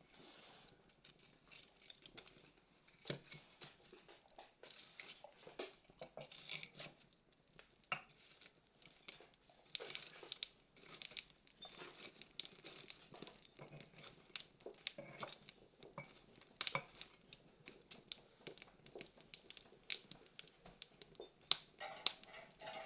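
Campfire crackling: irregular sharp pops and snaps, some louder than others, over a faint hiss.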